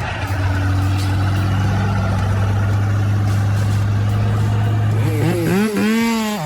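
A heavy vehicle's or machine's engine running at a steady low drone. About five seconds in, a pitched sound rises and falls a few times over it.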